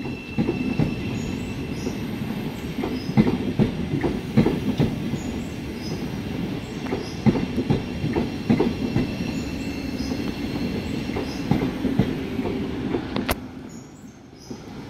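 Great Northern Class 717 electric multiple unit pulling out of the platform, its wheels clattering with irregular knocks over rail joints and points. It fades near the end.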